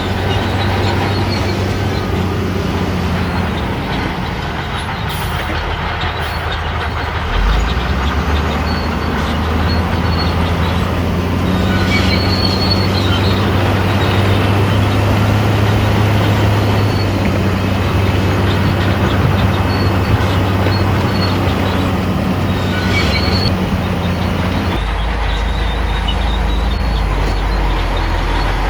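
Shantui crawler bulldozer working: its diesel engine runs steadily, and its steel tracks squeal and clank. Short high squeals come twice, and the low engine rumble grows heavier near the end.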